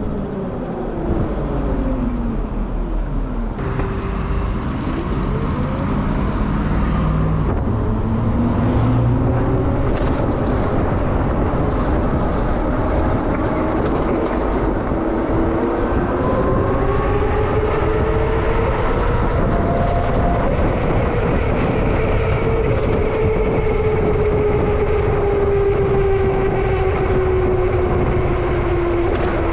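Denzel Samurai electric dirt bike being ridden: its motor whine rises and falls in pitch as the speed changes, over a steady low rumble of wind and road.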